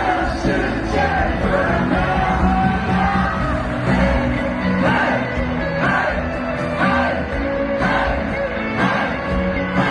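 Live band music playing over a loud PA, with audience members shouting and cheering over it; the shouts come about once a second in the second half.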